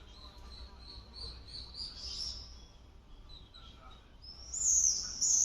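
A bird chirping: a quick series of short high notes climbing in pitch, then a few louder, higher chirps near the end.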